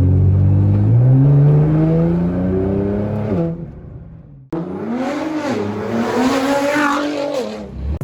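Nissan GT-R R35's twin-turbo V6 accelerating hard, its pitch climbing steadily for a few seconds before dropping away. After an abrupt break about halfway through, the engine is heard again revving, its pitch rising and falling.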